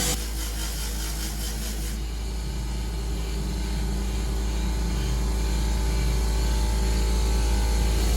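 A motor running steadily with a continuous hum.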